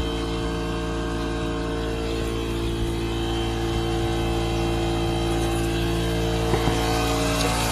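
Pontiac 400 V8 idling steadily, with a few light clicks near the end.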